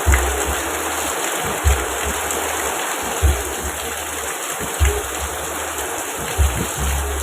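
Steady rain noise over a soft music track, whose low bass note comes in about every second and a half.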